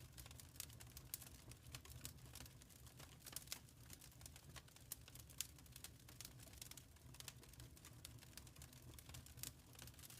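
Quiet wood fire crackling: irregular sharp pops and snaps, several a second, over a low steady rumble of the burning fire.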